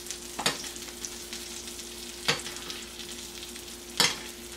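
Salmon fillet frying in butter in an All-Clad stainless steel pan, sizzling steadily while it is basted with a spoon. Three brief sharp bursts, about a second and a half apart, as the spoon scoops the hot butter and pours it over the fish.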